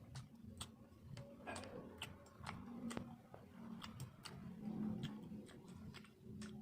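Close-miked mouth sounds of someone eating: irregular wet clicks and smacks of lips and tongue while chewing, several a second.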